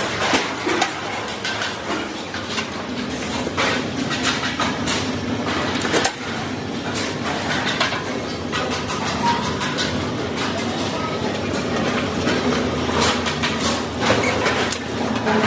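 Factory machinery running with a steady hum, with frequent sharp metallic knocks and clanks throughout.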